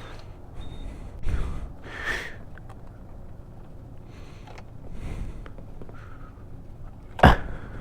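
Breathing close to the microphone, heard as soft puffs, with a short high beep about a second in and one sharp knock near the end.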